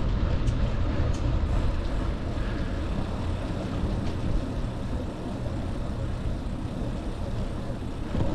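Steady low rumble and hiss of riding noise on a bicycle-mounted camera's microphone, mostly wind rushing over the mic, with no single event standing out.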